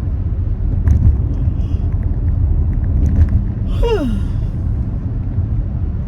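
Steady low rumble of a car's cabin while driving, road and engine noise. A few faint clicks, and a short falling tone about four seconds in.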